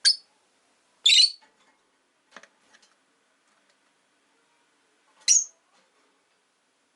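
Rosy-faced lovebirds giving three short, shrill chirps: one at the start, one about a second in, and one about five seconds in, with a few faint ticks in between.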